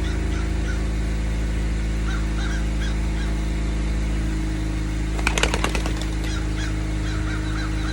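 Short, repeated bird calls over a steady low mechanical hum, with a brief burst of rapid wing flapping about five seconds in.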